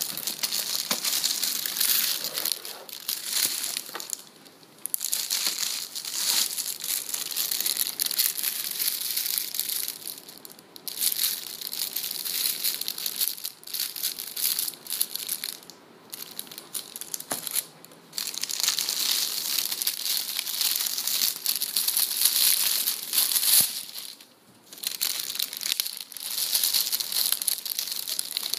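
Packaging being unwrapped and handled, crinkling and crumpling in bursts of a few seconds with brief pauses between them.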